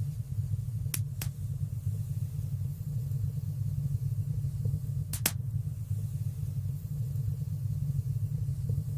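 Wood fire burning in a fireplace: a steady low rumble of flames with a few sharp pops, two close together about a second in and one just after five seconds in.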